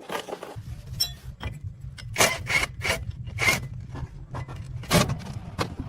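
Irregular scraping strokes and sharp clicks of tool work on metal, over a low steady hum.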